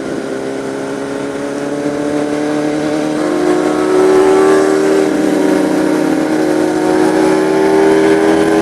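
Sport-bike engine running under way, its pitch and loudness rising gently about three seconds in, then holding fairly steady at cruising revs.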